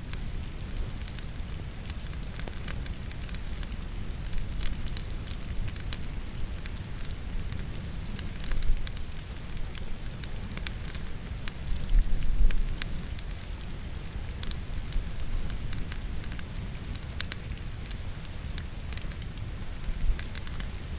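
Wood logs burning in a fireplace, crackling with many sharp pops, over a steady wash of rain and a low rumble. A couple of louder low thuds come about 9 and 12 seconds in.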